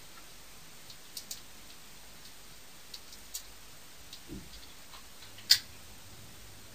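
Scattered light clicks and taps against a quiet room, with a dull low knock about four seconds in and one sharp, much louder click about five and a half seconds in.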